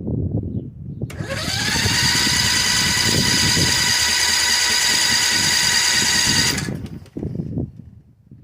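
Electric starter cranking the 18 hp V-twin minibike engine on a cold start with the choke on. There is a whine that rises as the starter spins up and then holds steady over a rough chugging rumble for about five seconds. It cuts off without the engine catching.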